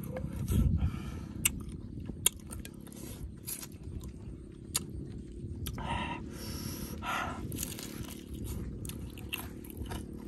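Close-miked chewing and lip-smacking of grilled pig tail, with many short wet clicks from the mouth and a low thump about half a second in.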